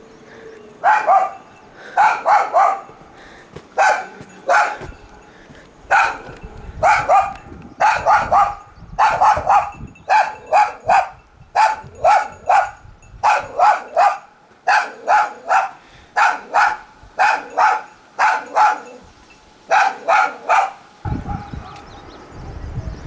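A dog barking over and over in quick runs of two or three loud barks, stopping near the end.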